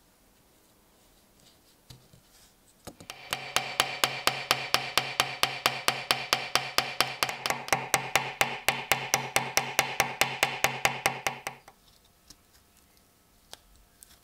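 A small electric power tool runs for about eight seconds with a steady hum and a regular ticking about five times a second, then stops abruptly.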